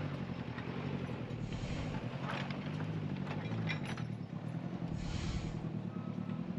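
Diesel engine of a backhoe loader running steadily, with a few faint knocks.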